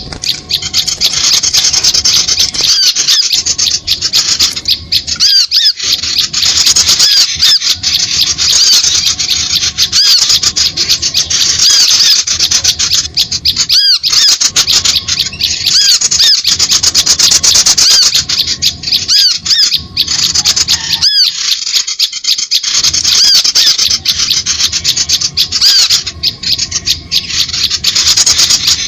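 Loud, dense chorus of small birds' high-pitched chirps and twitters, short arched notes in quick succession without a break: a bird-lure (suara pikat) call recording used to draw small birds in to lime sticks.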